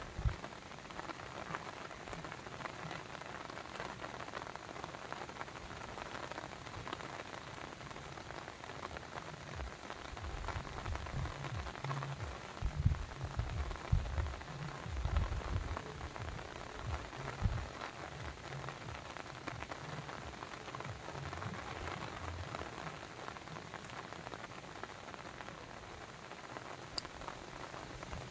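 Babbling brook: steady, even rush and splash of running water. From about ten to eighteen seconds in, uneven low thumps and rumbles sit under it.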